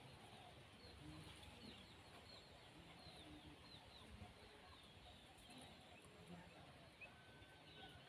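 Faint bird chirps: many short, high, downward-slurred notes repeated irregularly over a quiet background.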